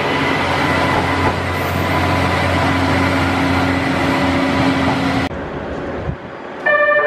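Resort Minori diesel railcar running through the station: steady engine hum and rolling noise from the train. The noise cuts off suddenly about five seconds in, and a chiming melody begins near the end.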